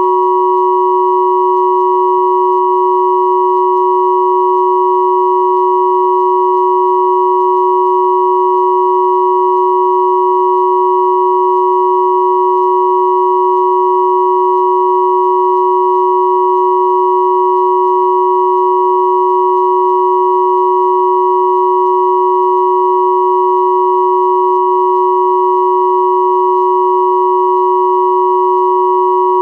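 Three pure sine tones at 369, 963 and 1111 Hz sounding together, held steady without any change.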